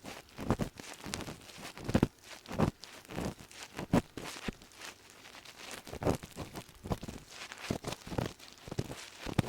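Ear pick scraping and scratching close in an ear, an irregular run of short crackly, gritty scrapes and taps, like dry earwax being worked loose.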